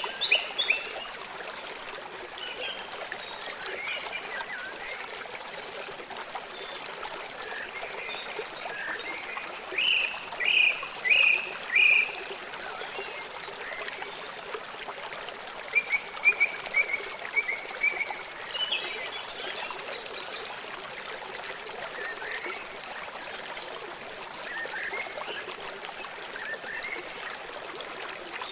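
Stream water running steadily, with bursts of high chirping calls over it. The calls are loudest about ten to twelve seconds in, with a quick even run of notes a few seconds later.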